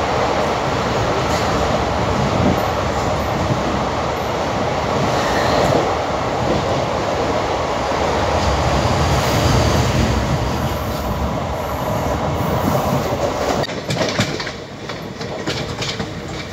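Indian passenger train running at speed, heard from an open coach door: a loud, steady rush and rumble of wheels on rails and passing air. About fourteen seconds in the level drops and a run of sharp clicks follows, the wheels going over rail joints.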